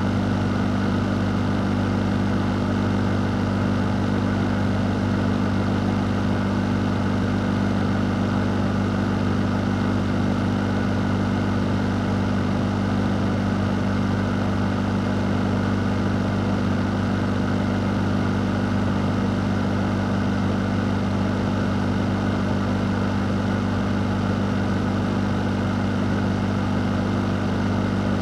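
Fan running continuously: a steady low hum over an even rush of air, unchanging throughout.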